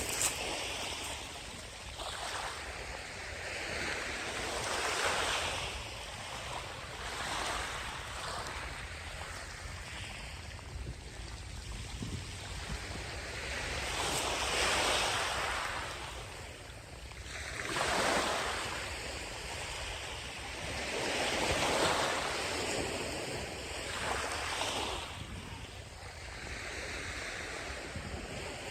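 Small sea waves breaking and washing up the beach, swelling and fading every few seconds, over a low rumble of wind on the microphone.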